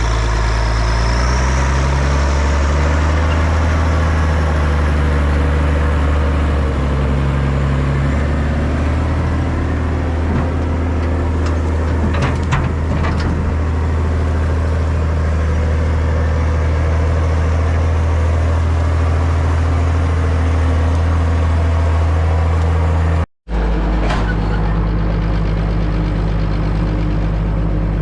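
1988 Zetor 16145 tractor's six-cylinder turbodiesel, straight-piped, running steadily with the turbo audible. The sound breaks off for a split second about 23 seconds in and then carries on.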